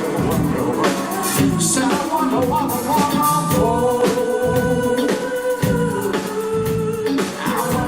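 Live band playing a soul-pop cover, with singing over drum hits.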